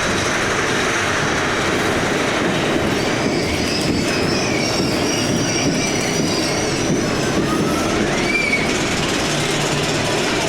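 Big Thunder Mountain Railroad's mine-train coaster cars rolling along the track with a steady rumble and clatter. A thin, wavering wheel squeal comes in the middle, and a short rising squeal follows about eight seconds in.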